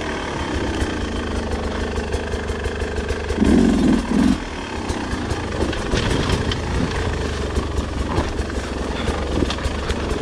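Beta 250 two-stroke enduro motorcycle engine running while riding, with two short louder surges of throttle about three and a half seconds in, and light clicks and knocks throughout.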